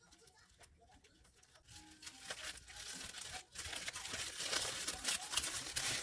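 Crinkling and rustling with many small crackles, faint at first and growing louder about two seconds in.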